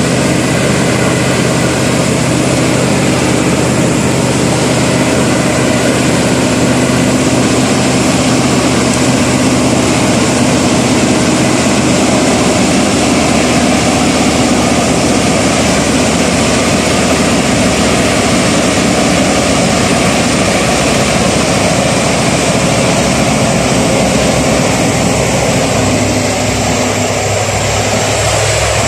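Mitsubishi Fuso Super Great truck's V8 twin-turbo diesel engine running steadily. Its note drops slightly about three seconds before the end.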